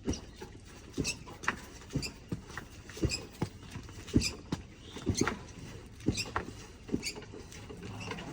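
Suspension of a new 2025 Honda Sahara motorcycle clicking and creaking in short, sharp knocks, about one or two a second, some with a squeaky edge. It is a fault noise on a bike with only 359 km, which began at about 200 km.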